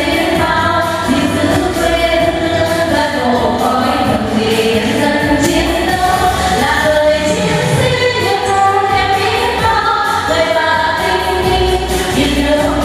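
A vocal trio singing a Vietnamese song together over musical accompaniment.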